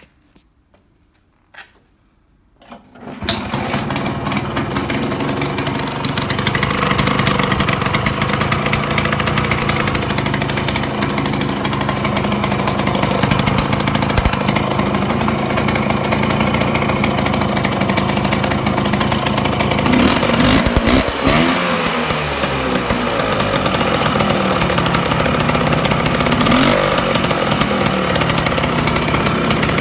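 Provisionally assembled Vespa scooter engine starting: a few clicks, then it catches about three seconds in and keeps running. Around twenty seconds in the engine speed briefly dips and rises, then it runs steadily again.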